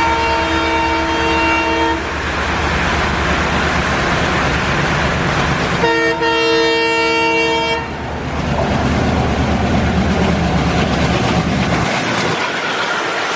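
Indian Railways locomotive horn sounding twice in long blasts, the first ending about two seconds in and the second from about six to eight seconds in. Both sound over the steady hiss of heavy rain and the rumble of the train, which drops away near the end.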